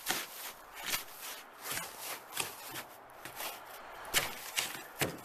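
Repeated crunching strokes in packed snow, about one a second at an uneven pace.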